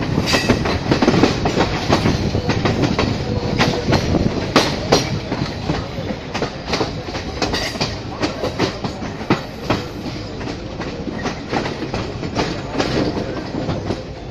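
Passenger train running, heard from an open doorway of one of its carriages: a steady rumble with many sharp clicks and clanks of the wheels over the rail joints, growing somewhat quieter in the second half.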